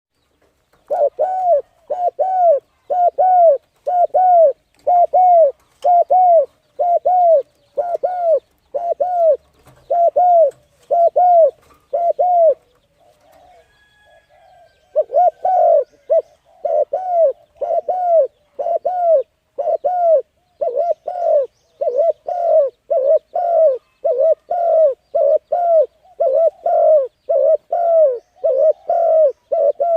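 A bird calling the same short note over and over, about two a second; each note rises and falls in pitch. The calls pause for about two seconds near the middle, then carry on at the same pace.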